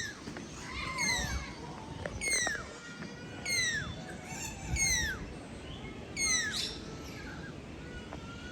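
A bird calling over and over, a harsh call that slurs downward, about once every second and a quarter, five or six times, then stopping.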